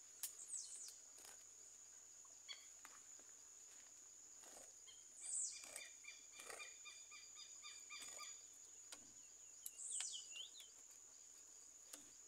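Faint bird whistles: two calls sliding downward in pitch, about five and ten seconds in, with a run of short repeated high notes between them, over a steady high thin whine.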